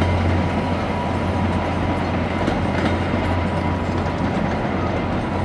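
VIA Rail LRC passenger coaches rolling away over the station trackwork, the wheels clicking now and then over rail joints and switches, under a steady low rumble.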